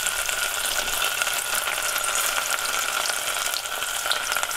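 Egg-dipped pieces of carp deep-frying in a stainless saucepan of hot oil, a steady sizzle and crackle.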